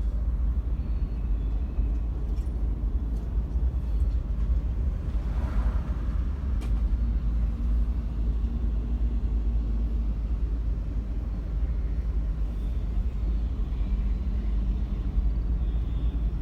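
Steady low rumble of a car driving, heard from inside the cabin, with road and engine noise and no clear events.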